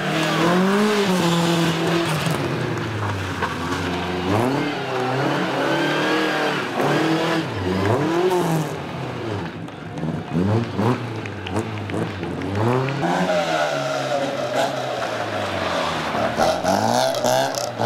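Classic BMW 02-series rally car's four-cylinder engine revved hard, climbing and dropping in pitch again and again as it is driven through a tight course. Near the end a second classic car, an Opel Kadett C coupé, is heard revving in the same way.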